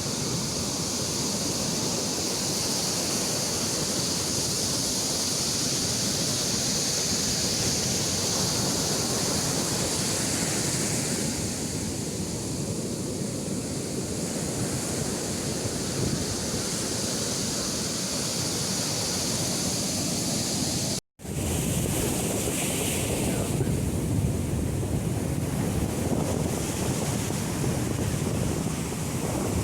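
Sea waves breaking on a beach, a steady wash of surf. The sound cuts out for an instant about two-thirds of the way through.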